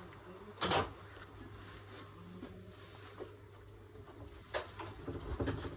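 Aoimori Railway 701 series electric train heard from the cab: a steady low hum, with a short burst of hiss about a second in, a click near the end and a few small knocks after it.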